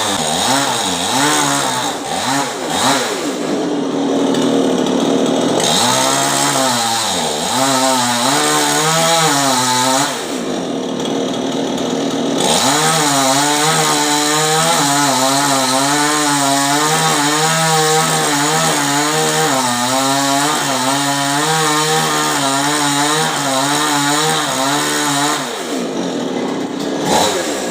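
A chainsaw running and cutting into a coconut palm, its engine pitch wavering up and down as the chain bites under load and eases off.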